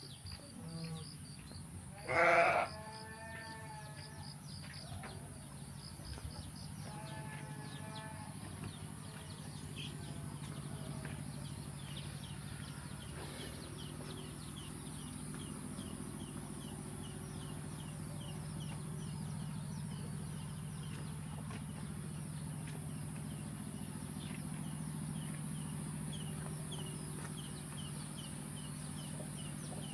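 Bleating from livestock: one loud bleat about two seconds in and a fainter one around seven seconds. A steady low hum then comes in and holds, with rapid rhythmic insect chirping and a steady high insect hiss behind it.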